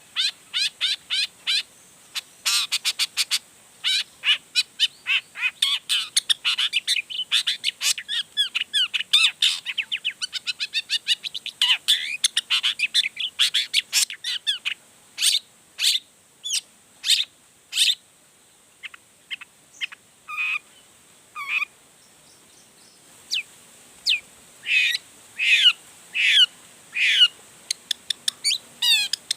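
Long-tailed shrike (cendet) singing a varied song full of mimicked material: rapid runs of sharp, high chirps and trills in the first half, then slower, separate calls.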